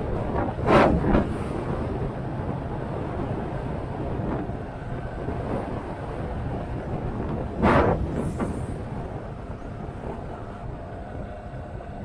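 Motorcycle underway, with a steady engine and riding noise. Two brief loud whooshes come about one second in and again near eight seconds.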